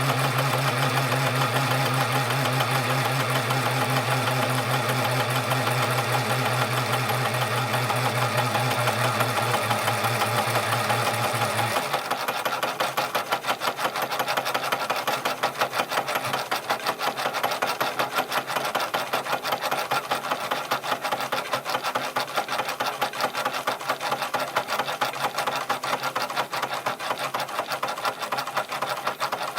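Small toy steam engine, an early J. Falk model 143/2, running fast with a rapid, even mechanical clatter. A steady low hum runs under it and cuts off suddenly about twelve seconds in, while the engine keeps running.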